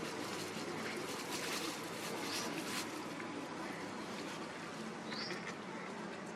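Two short, high, rising bird chirps over a steady outdoor hiss.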